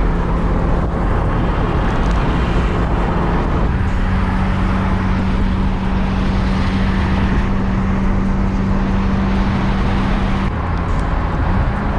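Ferrari F355's V8 running at a steady, moderate engine speed under the open roof, with wind and road noise. The engine note steps up slightly about four seconds in and eases off near the end.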